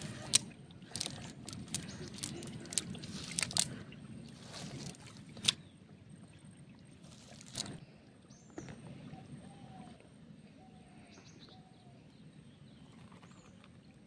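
Water splashing and sloshing with scattered sharp clicks in the first half, from wading and working a fishing net in shallow river water. It goes quieter after about eight seconds, with a few faint bird chirps.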